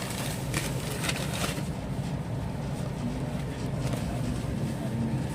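Steady low rumble of a passenger train running, heard from inside an ICF coach. A few brief clacks or rattles come between about half a second and a second and a half in.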